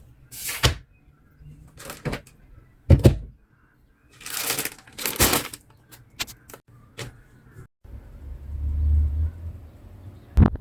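Everyday handling noises: a series of short rustles, clicks and knocks at irregular intervals, with a low rumble near the end.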